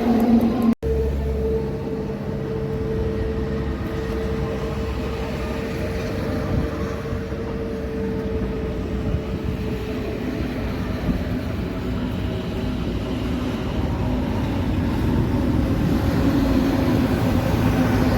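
Heavy vehicle running past with a steady low rumble and a droning tone, with a sudden cut about a second in.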